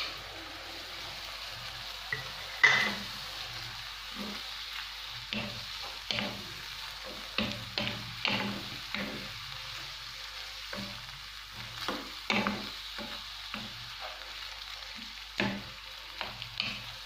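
Minced meat with garlic and chopped tomato frying and sizzling in oil in a non-stick frying pan, stirred with a wooden spatula that scrapes and taps against the pan in short irregular strokes. A single sharp knock about three seconds in.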